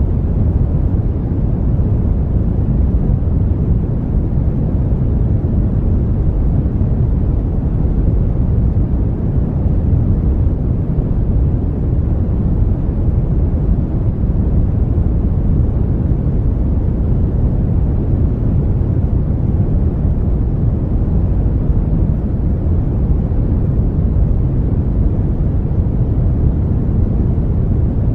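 Synthetic brown noise: a steady, smooth, deep rushing hiss with most of its energy in the low end and little treble.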